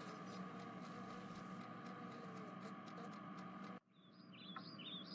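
Faint ambience with small birds chirping in short gliding calls. The background cuts out abruptly a little under four seconds in, then comes back with a cluster of chirps.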